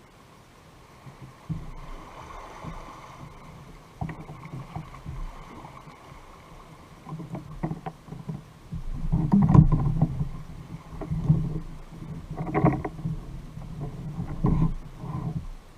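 Kayak being paddled: water sloshing and knocking against the hull, with low thumps every second or two that grow louder in the second half, and a few light clicks.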